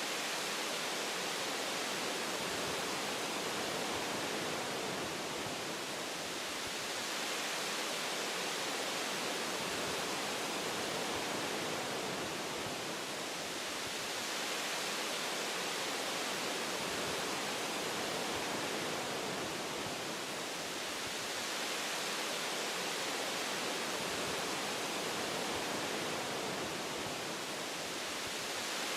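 Wind blowing through forest tree branches: a steady rushing hiss that swells and eases gently every few seconds.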